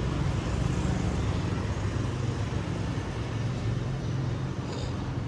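Steady low rumble of background road traffic, with a faint short high-pitched sound near the end.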